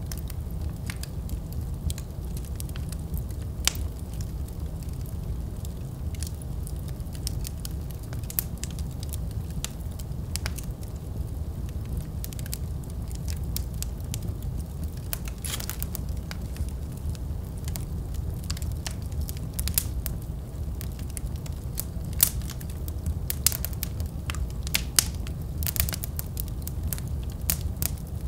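Wood fire burning in a fireplace: a steady low rumble of the flames with irregular sharp crackles and pops from the burning logs, busier and louder in the second half.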